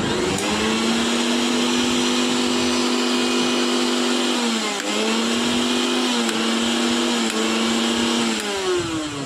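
Electric mixer grinder motor spinning up at the start and then running at high speed with a steady whine. Its pitch dips briefly and recovers about halfway through, and near the end it winds down with a falling pitch.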